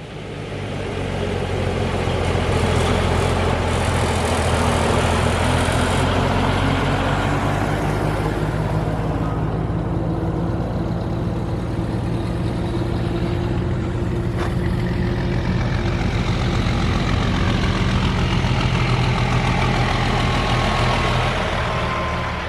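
Diesel truck engine running steadily at low revs, with one sharp click about halfway through.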